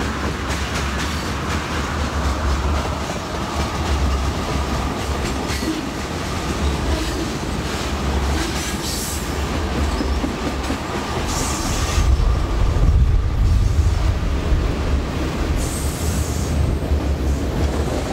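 Long mixed freight train of tank cars and autoracks rolling by: a steady heavy rumble with wheels clattering over the rails. Wind buffets the microphone, strongest in the second half.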